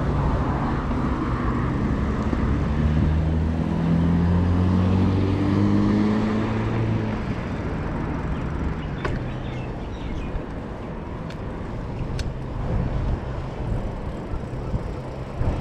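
A motor vehicle's engine running close by in street traffic, its pitch rising a little as it pulls past, then fading after about seven seconds over steady road noise. A couple of sharp clicks come later.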